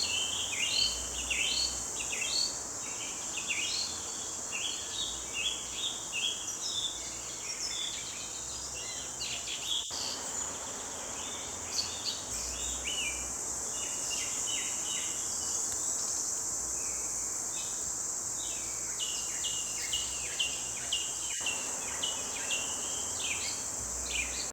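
A chorus of many small songbirds chirping and singing in quick, overlapping short phrases, over a steady high-pitched insect drone such as crickets.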